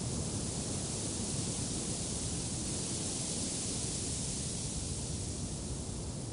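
Steady wind blowing, with a low rumble on the microphone and a broad hiss that swells slightly a couple of seconds in.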